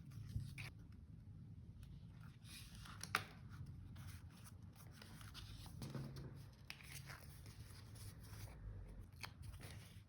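Quiet rustling and small clicks of paper and stationery being handled during diary decorating, with one sharper click about three seconds in.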